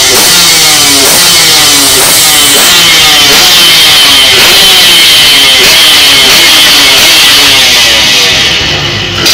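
Freshly ported Yamaha RX-King 135 cc single-cylinder two-stroke engine revved hard and loud, its pitch falling away and picking up again and again as the throttle is worked.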